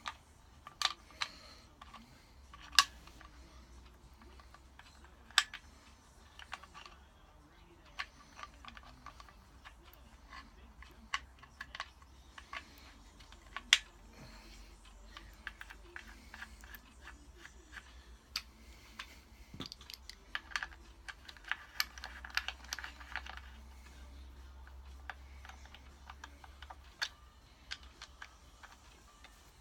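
Irregular light clicks and taps of metal parts being handled: a timing chain and its guides being fed into place in a Porsche 911 SC crankcase half. A few clicks are sharper than the rest, and they come thicker about two-thirds of the way through.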